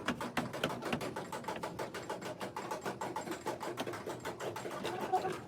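Rapid, irregular mechanical clicking and tapping, several clicks a second, that stops suddenly near the end.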